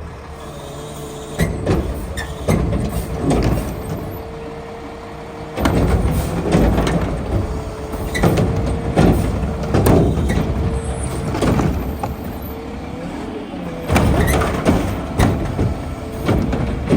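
Mack LR garbage truck with a McNeilus Meridian body and Curotto-Can arm at work: the truck runs with a steady whine, under a string of irregular clanks and bangs.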